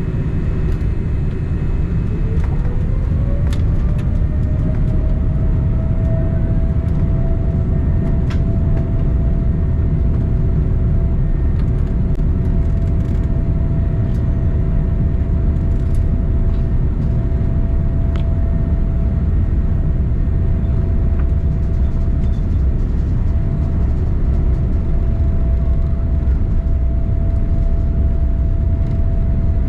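Inside the cabin of a Boeing 787-9 on its takeoff roll: the GEnx turbofans spool up to takeoff thrust, their whine rising in pitch over a few seconds and then holding steady over a heavy rumble from the runway and airframe. A few light knocks and rattles come through the rumble.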